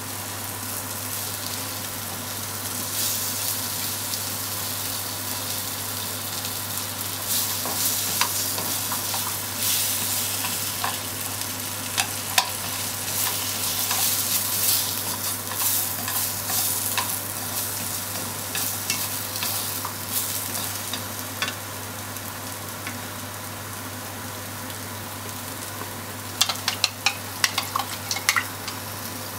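Pork slices and sliced onion sizzling in a frying pan, stirred and turned with wooden chopsticks that click against the pan now and then. A quick run of sharper clicks comes near the end.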